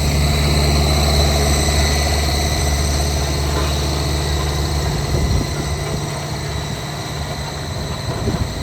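Diesel engine of heavy construction machinery running steadily with a deep hum, which weakens about five seconds in.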